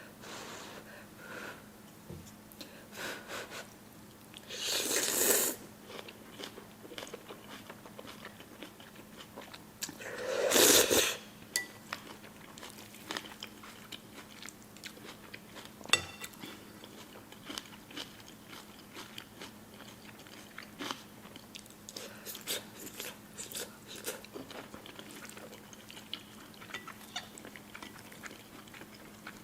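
Close-miked eating of spicy noodles: wet chewing with many small clicks, broken by two loud slurps of about a second each, around five and eleven seconds in.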